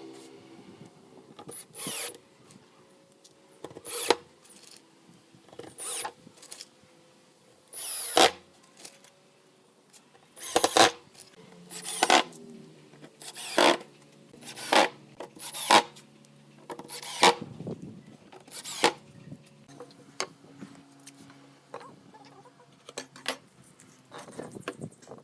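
Hand work on wood: a series of short, sharp scraping or rasping strokes, roughly one every second or two.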